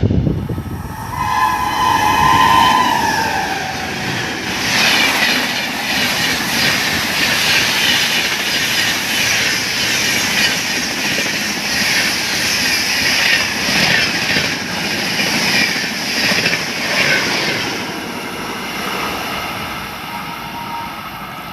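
Express train sounds its horn for about two seconds. It then passes at high speed, its wheels clattering rapidly over the rails for about thirteen seconds, and fades toward the end.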